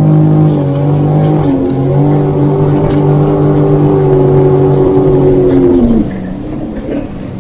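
A vehicle engine running steadily, its pitch shifting slightly. About six seconds in it glides down and gets much quieter as it eases off.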